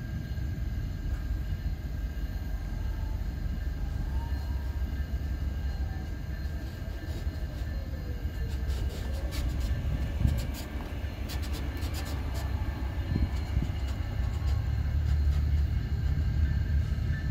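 Low, steady rumble of an approaching diesel train, with a cluster of clicks and rattles about halfway through and the rumble growing louder near the end.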